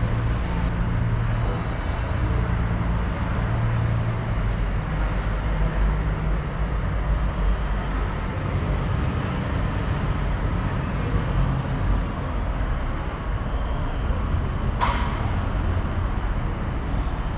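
Semi truck's diesel engine running with a steady low rumble, and a single sharp click near the end.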